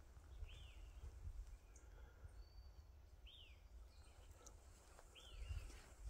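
A bird repeating a short call that rises and falls, three times about two to three seconds apart, faint over a low rumble.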